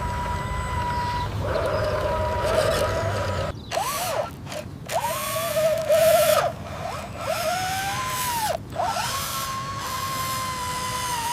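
Small electric motors of a homemade RC model whining, their pitch rising and falling as they speed up and slow down. The sound cuts off abruptly a few times.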